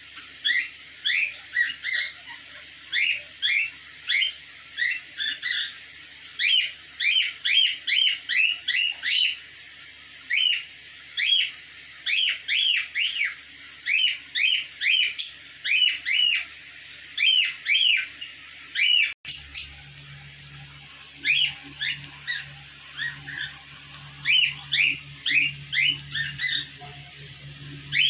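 Small pet parrots chirping repeatedly: short, sharp, upward-sweeping calls coming several a second, with a brief pause a little after the middle.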